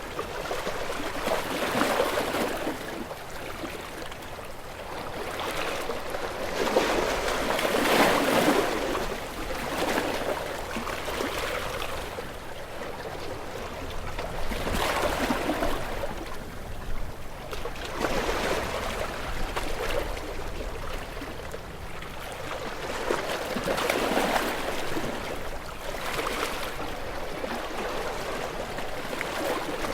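Ocean waves washing in and breaking, the surf swelling and ebbing every few seconds with no steady rhythm.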